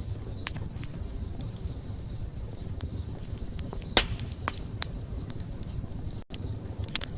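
Wood campfire burning, with a low rumble of flames and scattered crackles and pops. The loudest snap comes about four seconds in, and there is a split-second dropout in the sound near the end.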